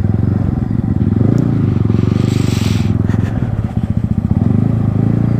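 Yamaha MT-15's single-cylinder engine through an Akrapovic exhaust, running with a steady pulsing note. A brief hiss comes in about halfway through.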